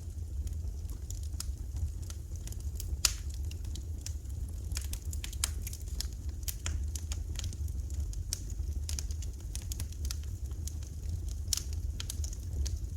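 Wood fire crackling in a fireplace: irregular sharp pops and snaps, one louder pop about three seconds in, over a steady low rumble.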